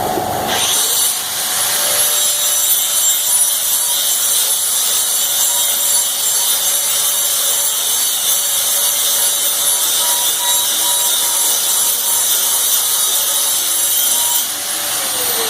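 Electric grinder spinning up about half a second in and grinding the paint off steel, a steady high whine with a hiss, to bare metal for welding. Near the end it is switched off and its whine falls as it winds down.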